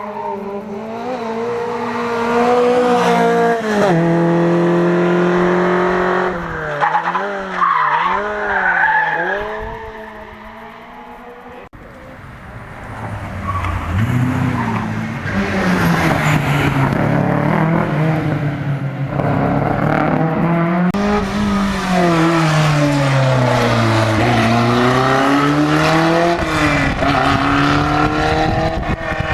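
Rally cars running hard past the spectator, engines revving high and dropping sharply again and again with gear changes and lifts. One car fades away about a third of the way in and a second arrives soon after, its engine rising and falling in pitch.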